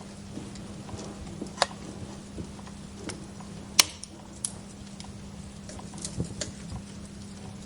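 Wood fire crackling in a fireplace: irregular small pops and snaps over a soft hiss and a low steady hum. A sharp loud pop comes a little under four seconds in, with another about a second and a half in.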